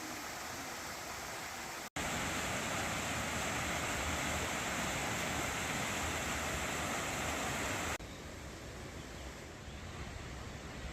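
Valley stream water rushing in a steady, even hiss. The sound cuts out for an instant about two seconds in, comes back louder, and turns quieter near the end, as the shots change.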